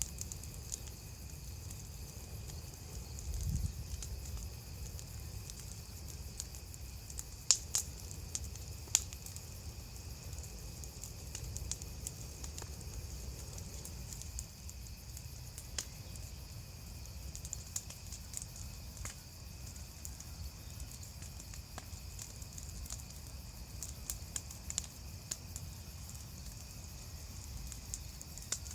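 Bonfire crackling: wood burning with scattered sharp pops, the loudest a couple of snaps about 7 to 9 seconds in, over a low steady rumble.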